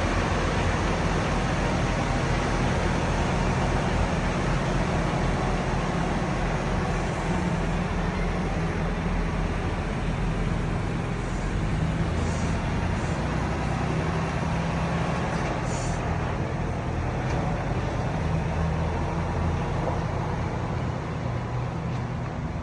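Truck driving on the road: a steady drone of engine and road noise with a low engine hum underneath, easing slightly in level toward the end.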